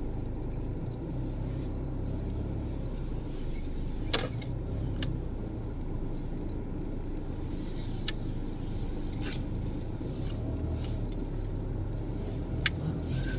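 Steady rumble of road traffic, with a few sharp clinks now and then.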